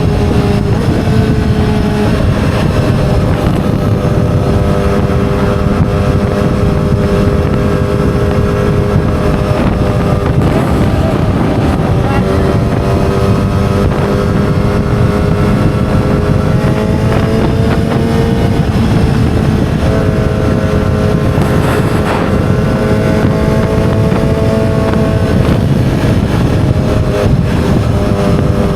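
2007 Yamaha R6's 600 cc inline-four engine running at a steady speed, its note drifting slightly up and down, with wind rushing over the microphone.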